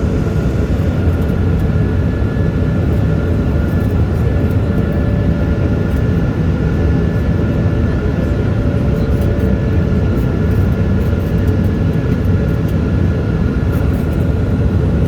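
Steady airliner cabin noise heard from inside the cabin: the engines and rushing air make a dense, even rumble, with a few faint steady whining tones above it.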